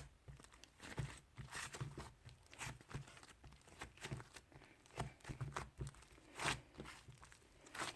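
Hands kneading and stretching clear cheese-type slime, giving an irregular run of short sticky crackles and pops, several a second.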